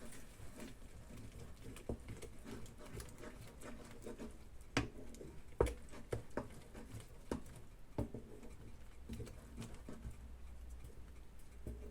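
Faint, irregular clicks and light knocks of cookware being handled while an omelette cooks in a non-stick pan, with a few sharper clicks in the middle, over a low steady hum.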